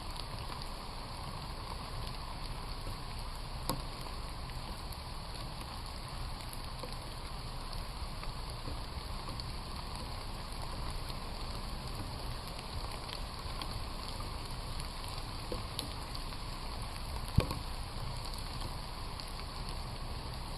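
Steady rain falling, an even hiss with scattered louder drop taps, and one sharp tap late on.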